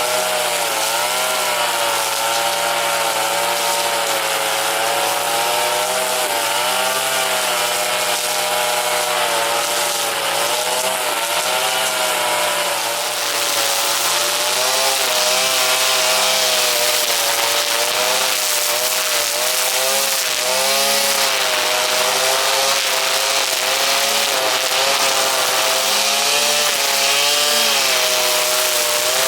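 Brush cutter engine running at high revs, its pitch wavering up and down continuously; a little louder from about halfway.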